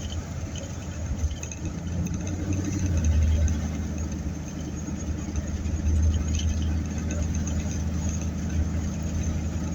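Steady low rumble of engine and road noise inside the cabin of a moving car, a little louder about three and six seconds in.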